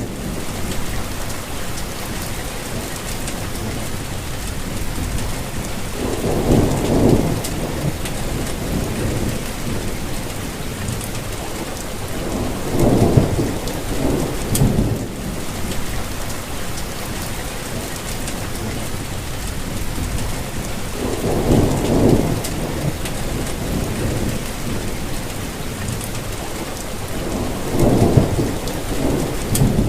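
Steady rain falling, with thunder rumbling low four times, a few seconds apart.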